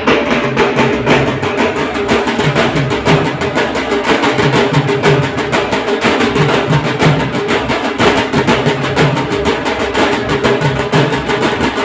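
Dhol drums played in a fast, steady, dense rhythm of many strokes a second, with a held tone running underneath.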